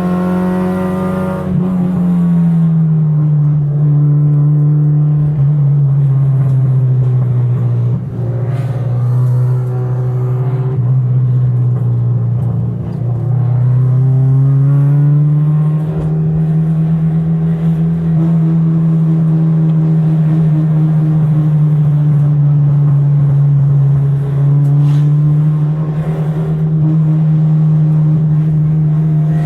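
A car engine running at fairly steady revs. Its pitch drops about two seconds in, holds lower, then climbs back up around fourteen seconds and holds steady again.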